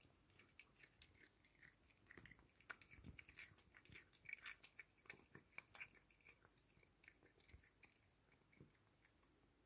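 A cat chewing and crunching on a caught mouse: a quick, faint run of clicking bites, busiest in the middle and thinning out toward the end.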